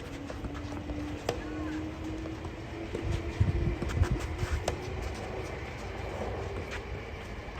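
Strong wind buffeting the microphone, with a low rumble that gusts hardest about three to four seconds in. A faint steady hum runs under it, and a few sharp knocks stand out.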